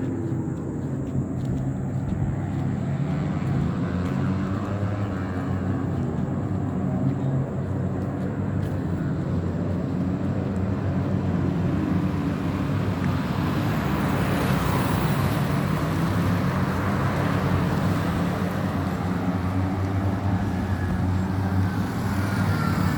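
Moto3 racing motorcycles' single-cylinder engines running hard around the circuit: a continuous wash of engine noise that swells about two-thirds of the way through as bikes pass closer, with rising revs near the end.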